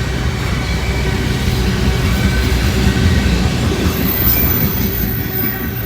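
Local freight train rolling past on the rails: a steady low rumble of wheels and cars with thin, steady high tones over it, easing off near the end.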